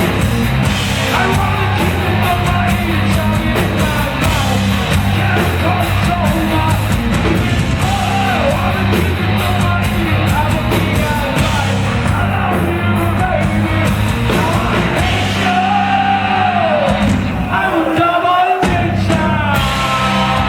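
Hard rock band playing live, loud, with distorted guitars, bass, drums with cymbals, and a singer belting the melody. Near the end the bass drops out for about a second, then a guitar rings on held notes.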